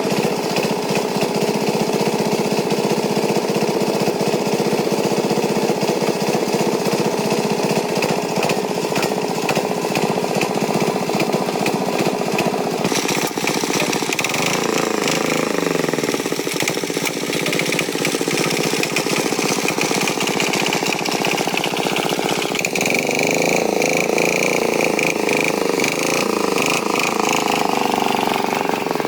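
Tractor engine running with a rapid, steady clatter. Its pitch shifts up and down about halfway through and again in the last third as the revs change.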